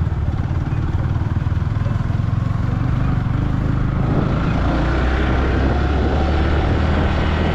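Motorcycle engine running under way at a steady road speed, with road and air noise over it; the note settles into a smoother, steadier hum about four seconds in.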